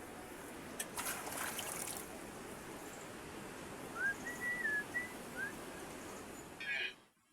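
Steady heavy rain, with a few short whistled chirps rising and falling in pitch about four to five and a half seconds in. The sound cuts off abruptly just before the end.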